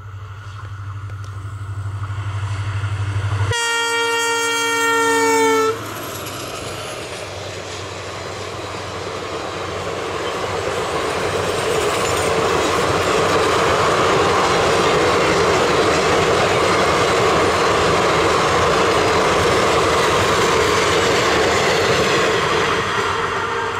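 Passenger train going by: a steady low hum, then the locomotive's horn blown once for about two seconds, three and a half seconds in. After the horn comes the rumble of the wheels and coaches on the rails, which swells as the coaches pass close and eases near the end.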